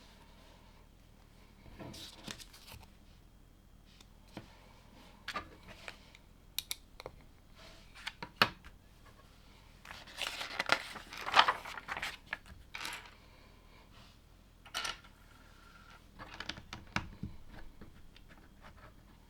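LEGO bricks being handled and pressed together: scattered sharp clicks and taps, with a longer stretch of plastic rustling and crinkling around the middle, the loudest sound.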